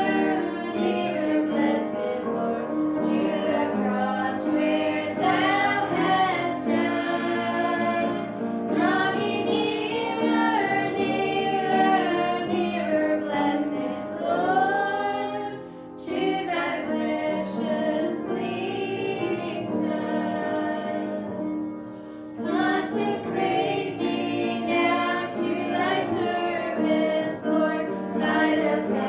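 A family group singing a gospel song, with female voices carrying the melody and short breaks between phrases.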